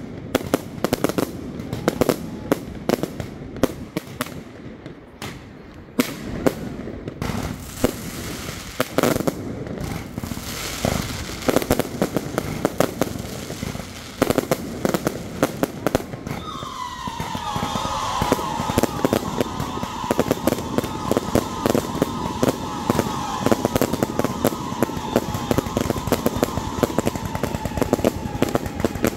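Fireworks show: aerial shells bursting and crackling stars popping in a dense, rapid stream of cracks and bangs. A bit past halfway a steady whistle-like tone joins in, sliding slightly down in pitch and then holding.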